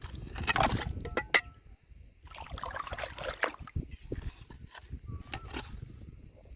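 Stones and gravel being dug by hand in shallow river water: sloshing water with many short knocks and clatters of rock on rock.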